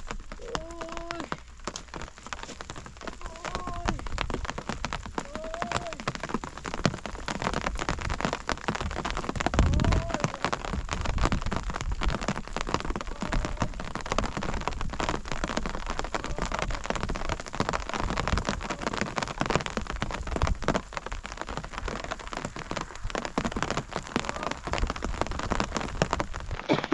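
Steady rain falling, a dense patter of drops. A few faint, short voice-like calls come in the first ten seconds, and a brief low rumble about ten seconds in.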